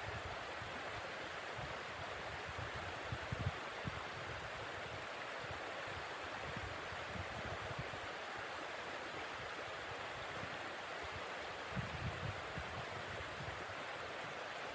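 Steady rushing blizzard wind, with low rumbling gusts buffeting the microphone about three seconds in and again near the end.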